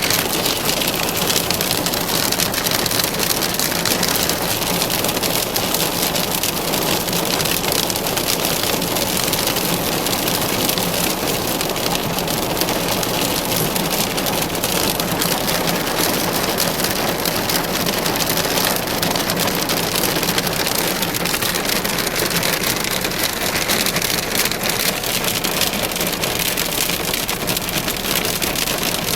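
Hailstorm: hailstones pelting down in a dense, steady patter of countless small impacts, mixed with heavy rain.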